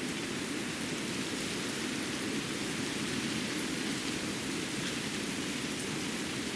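Steady winter-forest ambience after fresh snow: an even hiss with a few faint light ticks.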